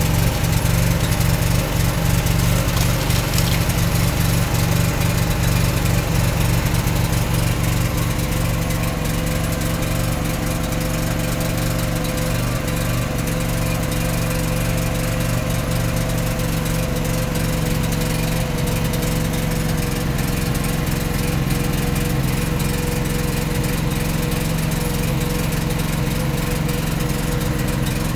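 Semi-truck diesel engine running steadily, easing slightly about eight seconds in, while the tractor is coupled back to the trailer's detachable neck.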